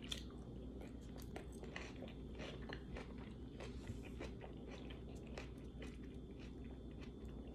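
Faint close-up chewing, with small irregular clicks and crackles.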